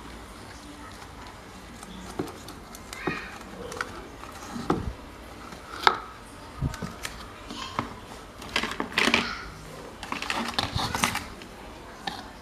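Hand work on old fan parts: irregular clicks, taps and light knocks of small parts being handled, growing into a busier run of clatter about eight and a half seconds in.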